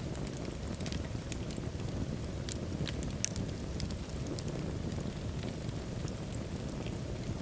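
Wood fire burning in a fireplace: a steady low roar of flames with scattered sharp crackles and pops, the loudest pops a few seconds in.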